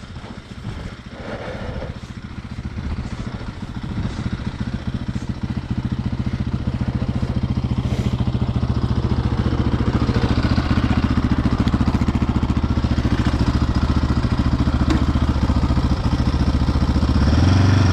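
Quad bike engine under load. The revs build over the first few seconds, hold high and steady, then rise again near the end as the machine labours in loose, deep snow and barely moves.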